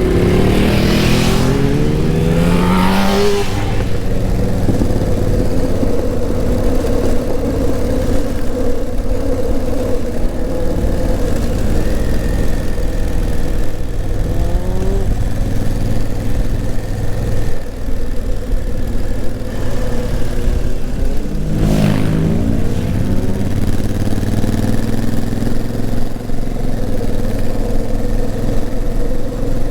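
Honda CRF1000L Africa Twin's parallel-twin engine under way, revving up through several quick upshifts of its dual-clutch gearbox near the start, rising in revs again briefly around the middle and about two-thirds in, and running steadily between.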